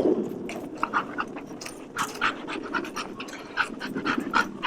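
A dog on leash panting in a quick, regular rhythm of short breaths.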